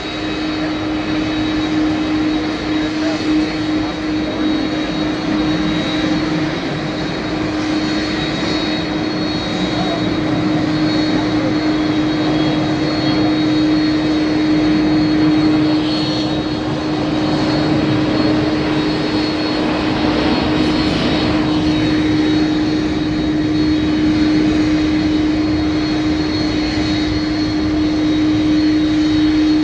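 Jet aircraft engine noise: a steady drone with a constant hum running through it.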